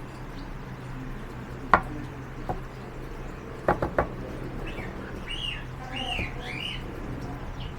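A few sharp clicks of small objects being handled, one and then three in quick succession, followed by a bird chirping repeatedly in short rising-and-falling notes, over a low steady hum.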